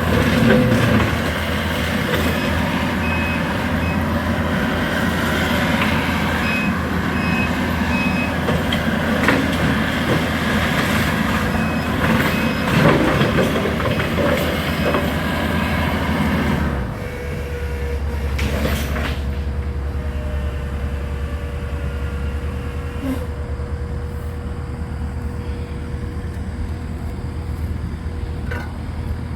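Skid steer running under load with a bush-hog brush-cutter attachment chewing through a pile of branches and stumps, with clattering and knocks, while its backup alarm beeps in the first several seconds. About 17 seconds in the cutting noise drops away, leaving the engine running steadily with a faint thin whine.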